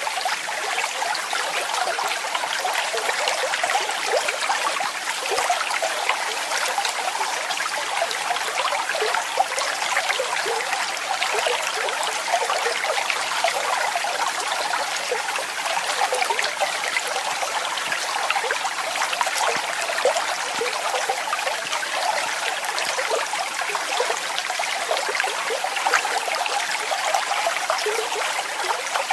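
Falling water splashing steadily, a continuous rush with fine bubbling and trickling detail in the upper range and little low rumble.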